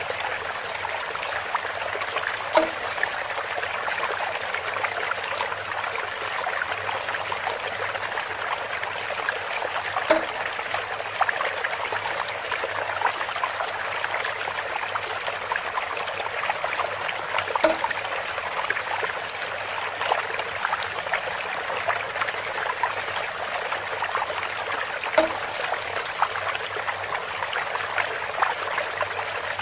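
Water trickling steadily through a bamboo water feature. A hollow knock repeats about every seven and a half seconds, four times.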